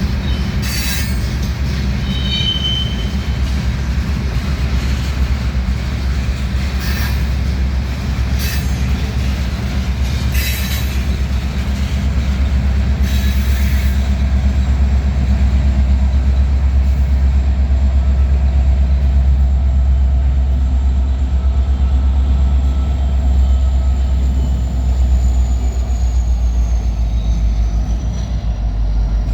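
Loaded gravel train's freight cars rolling past: a heavy, steady rumble of wheels on rail, with brief high wheel squeals in the first few seconds and a few sharp clanks in the first half.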